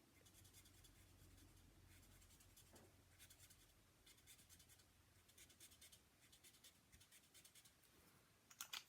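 Faint, repeated scratchy strokes of a colour-lifter marker tip brushing over cardstock, blending and softening alcohol-marker colour on a stamped flower.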